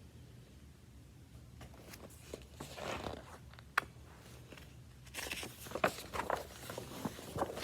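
Faint rustling with a few sharp clicks, in two patches separated by quiet room tone.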